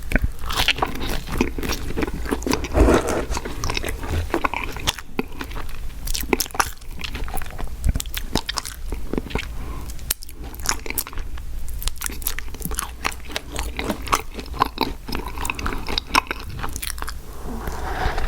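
Close-miked chewing and biting of fast food: continuous wet, crunchy mouth sounds made of many small irregular clicks and crackles.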